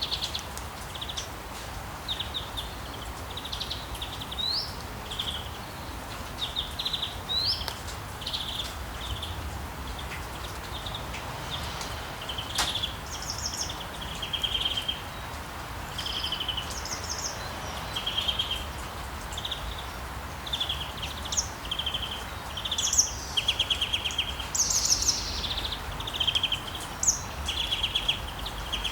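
Small songbirds chirping, with many short buzzy trills and a few quick rising notes, busier and louder in the second half, over a steady hiss of rain.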